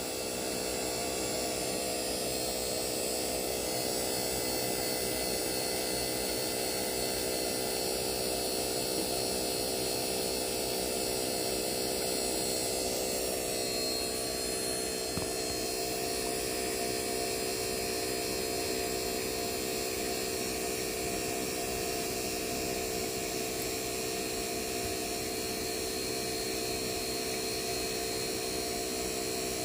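Hercules vacuum pump running steadily while evacuating a 2-ton split-system heat pump, an even motor hum with a set of steady tones.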